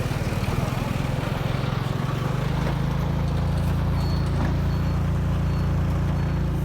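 Motorbike engine running steadily at cruising speed, a low hum with wind and road noise over it, evening out about two and a half seconds in.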